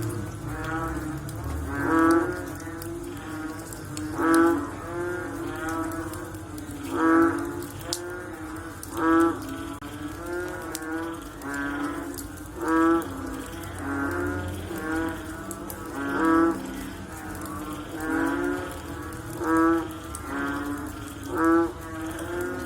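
Frogs calling after rain: a low call repeated loudly about every two seconds, with other frogs calling more softly in between.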